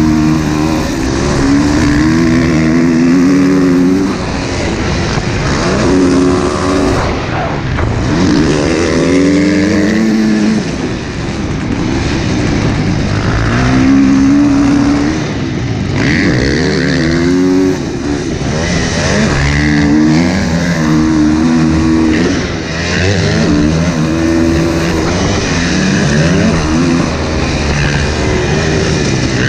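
Husqvarna motocross bike engine being ridden hard, revving up in pitch and dropping back again and again as the throttle is worked and gears change.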